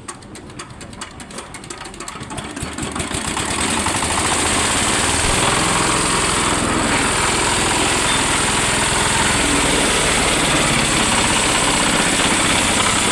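An 8 hp diesel engine on a 500-litre cement mixer is running. It starts with slow, distinct knocks and speeds up over the first few seconds, then holds a steady, loud, fast run.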